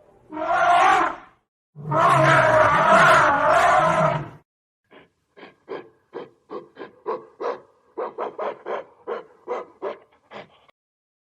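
Animal calls: a short loud roar, then a longer one of about two and a half seconds, followed by a run of short, quieter calls at about three a second.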